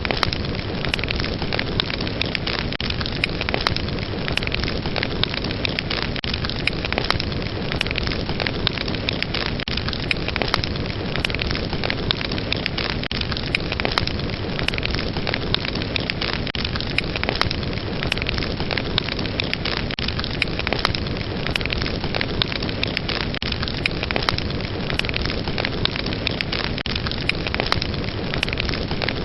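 Fire burning steadily: a dense rushing hiss with frequent sharp crackles and pops of the flames.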